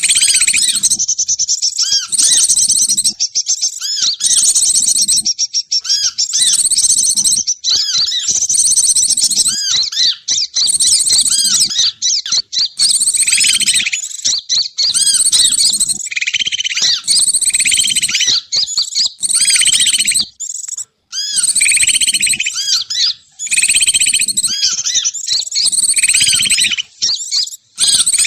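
Bird-lure recording of songbirds chirping and trilling: dense, loud, high-pitched calls with short breaks every second or two, used to draw wild birds down to a trap.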